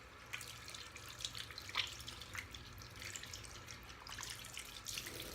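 Faint tap water running over hands, with small wet splashes and crackles as shaving-soap lather is rinsed off.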